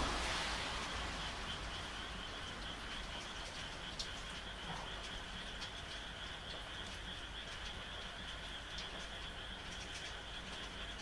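Frogs calling in a night chorus, a steady high trill with a few scattered clicks, over the even hiss of rain. A louder rushing noise fades out in the first second.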